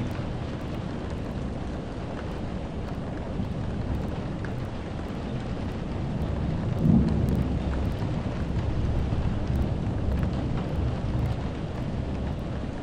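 Steady rain with low rolling thunder, the rumble swelling loudest about seven seconds in.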